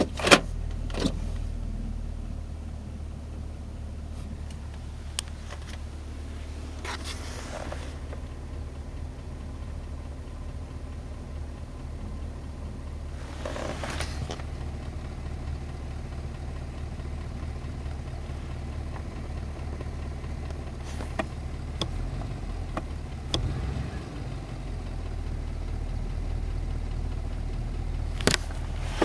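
Pontiac GTO's 6.0-litre LS2 V8 idling steadily, with a tapping that the owner suspects is piston slap. A few sharp clicks and two brief hissing swells come through over the idle.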